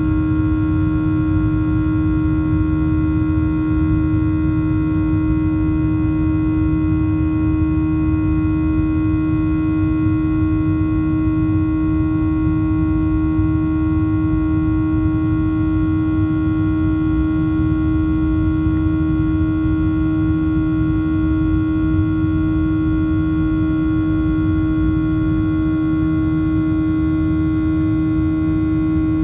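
Boeing 737-800 cabin noise: the CFM56-7B jet engines running steadily, heard from inside the cabin as a constant rumble with a strong, even hum and fainter higher tones.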